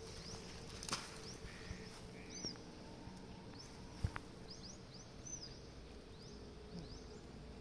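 Small birds give short, high chirps again and again over a faint steady hum, with one sharp knock about four seconds in.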